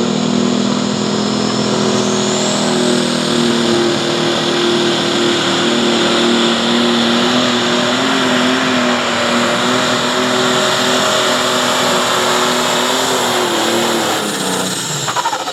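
John Deere 7520 Pro Stock pulling tractor's diesel engine running flat out under load during a pull, a loud steady drone. The engine note falls away near the end as the throttle comes off.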